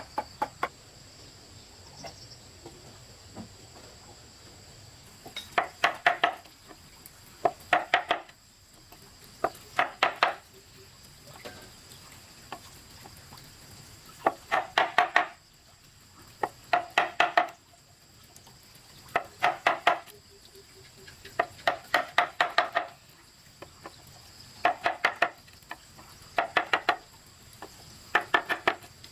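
Short bursts of quick, sharp, ringing metallic taps, five to eight strikes at a time, repeating about every two seconds. A faint steady high-pitched whine runs underneath.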